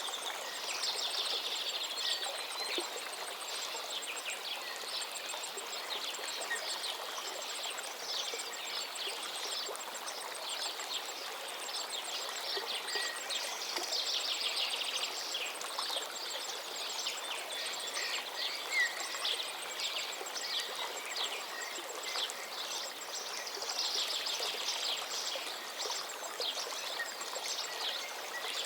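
A river rushing steadily, with many small birds calling and chirping over it.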